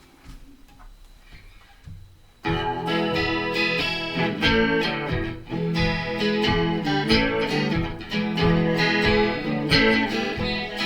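A few faint clicks, then about two and a half seconds in a guitar blues intro starts abruptly and plays on.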